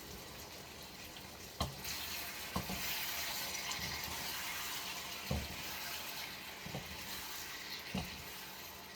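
Kitchen tap running in a steady hiss, starting about a second and a half in, with a few light knocks and clinks of kitchenware.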